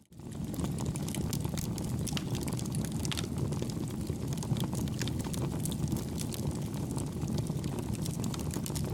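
Campfire burning: a steady low rush of flame with frequent small, irregular crackles and pops. The sound drops out for a moment at the very start, then fades straight back in.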